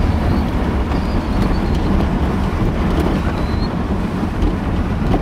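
Steady rumble of a car driving, engine and road noise with some wind noise.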